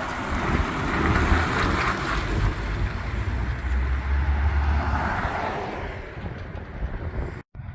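Heavy truck engines rumbling as lorries drive past, the deep engine note swelling twice, with wind noise on the microphone. The sound drops out completely for an instant near the end.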